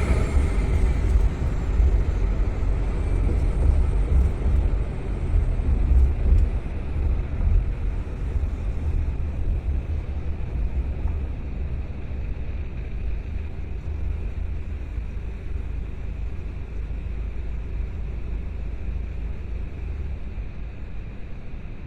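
Car driving, a steady low road and engine rumble that slowly gets quieter over the stretch.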